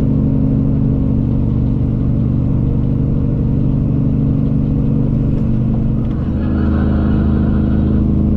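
Cummins ISX diesel engine of a Peterbilt 379 truck running under way, heard from inside the cab as a steady drone. About six seconds in the level dips briefly and the engine's pitch changes.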